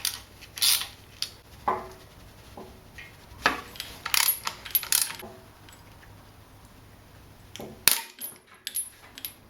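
Metal hand tools and parts clinking and clattering in irregular sharp knocks, a few ringing briefly, while a gearbox is unbolted from an engine.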